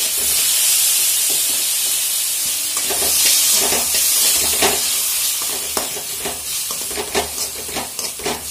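Onion, garlic and green chillies sizzling in oil in an aluminium kadai as chopped tomato is stirred in with a metal spoon, which scrapes and knocks against the pan. The sizzle thins after about halfway, and the spoon strokes stand out more toward the end.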